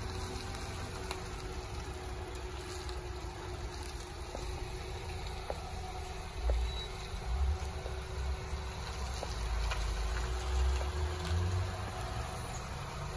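Nissan X-Trail engine idling steadily, with stronger low rumbles for a few seconds in the middle.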